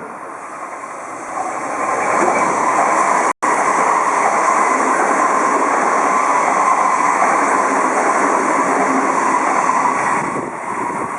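Odakyu Line electric train running along the track, getting louder about a second and a half in as it gathers speed, with a steady whine over the rumble of the wheels. The sound cuts out for an instant about a third of the way through.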